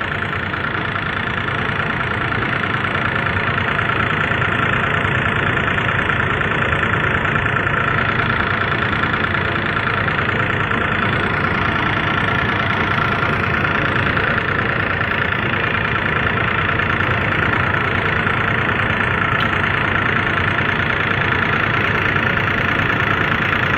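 Excavator's diesel engine running steadily at a constant speed, with an even, fast pulsing.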